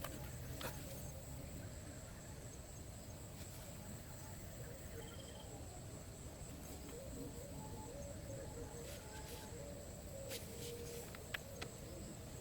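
Faint outdoor ambience: a steady high-pitched drone like insects, with a soft wavering lower tone in the second half and a few scattered light clicks.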